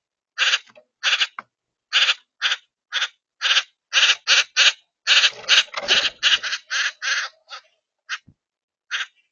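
A bird giving a long series of short, harsh calls, two or three a second, that crowd into a dense run around the middle before thinning out again.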